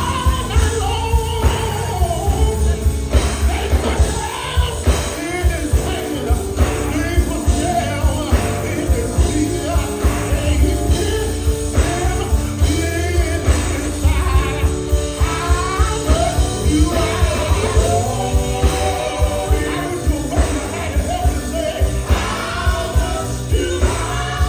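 Live gospel band playing: singing voices over drums and bass guitar with a steady beat.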